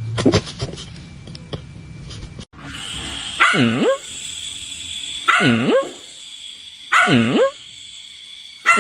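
A dog barking in long, drawn-out calls, four of them about every second and a half, each dipping in pitch and coming back up. Before them come a few short clicks and a brief yelp.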